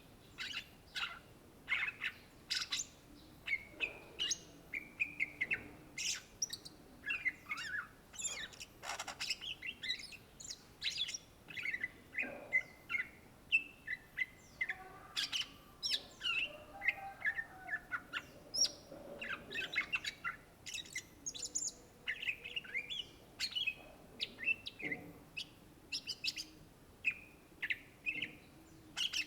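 Greater green leafbird (cucak ijo) singing a fast, varied song of chirps, sliding whistles and trills, with hardly a pause.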